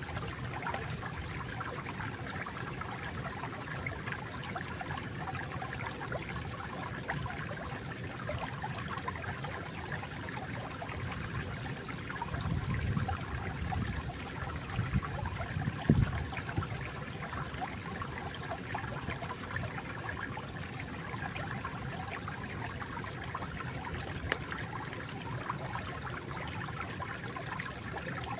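Small stream of water flowing and trickling steadily, with a deeper gush of water for a few seconds around the middle and a single low knock about sixteen seconds in.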